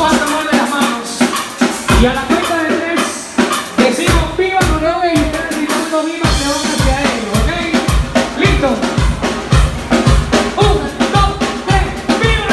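Live band playing upbeat dance music: drums with a steady bass-drum beat under melody instruments and some vocals.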